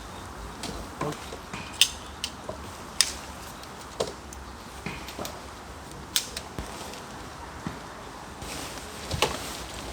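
Irregular sharp clicks and light clinks of small hard objects being handled, a dozen or so spread over several seconds, over a steady faint background hiss.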